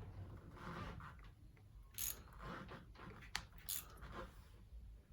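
Faint metal handling sounds of a hand wrench snugging down a water pump impeller fastener, with a few short sharp clicks.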